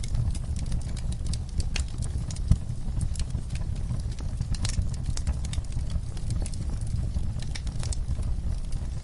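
Campfire crackling: sharp pops and snaps at irregular intervals over a low, steady rumble, with one louder pop about two and a half seconds in.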